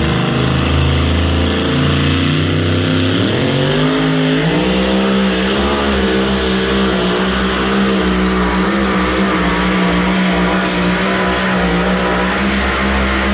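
High-horsepower pulling engine running loud and steady, its pitch climbing about three to four seconds in and then holding high with a slight waver.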